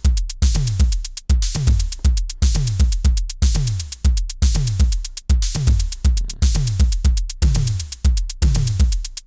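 Programmed drum-machine beat looping: deep kick drums whose pitch drops on each hit, about two a second, under fast, even closed hi-hat ticks and a snare.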